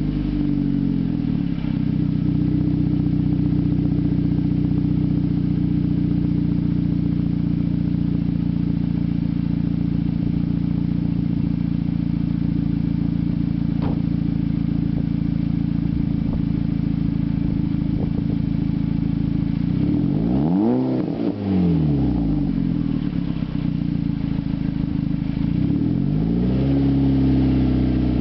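Volkswagen Mk5 GTI's 2.0T turbocharged four-cylinder idling steadily through a 3-inch turboback exhaust (downpipe and catback). Twice near the end it is blipped briefly, the pitch rising and falling back to idle.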